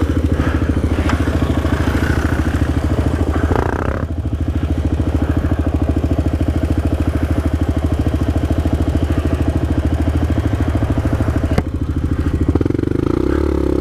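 Single-cylinder four-stroke engine of a 2009 Suzuki LTZ400 QuadSport sport quad running steadily while being ridden. The engine note eases off about four seconds in, dips briefly near the end, then picks up louder again.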